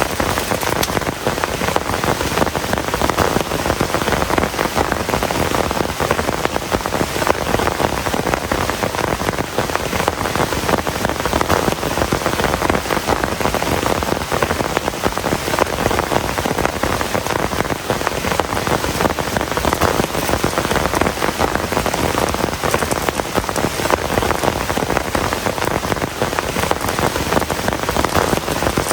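Heavy rain falling steadily, a dense, even hiss of countless drop impacts with no letup.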